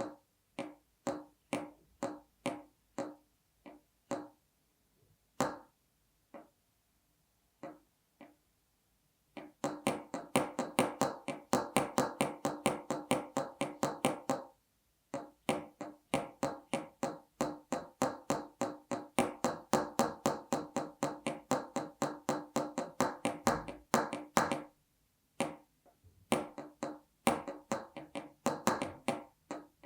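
Pneumatic pistons of a MetMo Dual Piston Stand worked back and forth by hand: a string of short pitched pops. They come singly and spaced at first, then in quick runs of about five a second from around ten seconds in, broken by a short pause, and slow again near the end.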